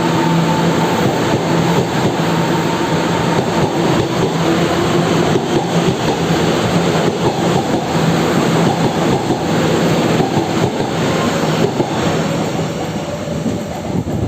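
Taiwan Railways local electric multiple-unit train running past as it pulls out of the station: loud rolling of steel wheels on rail with a steady electric motor hum and a few clicks over rail joints.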